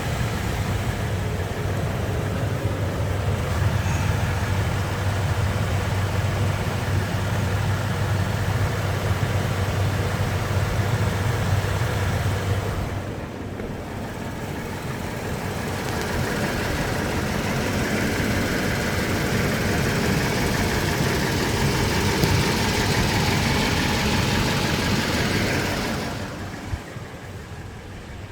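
2008 Toyota Tundra engine idling steadily during warm-up after a cold start. About halfway through the sound dips briefly, then comes back louder and brighter for several seconds before falling off near the end.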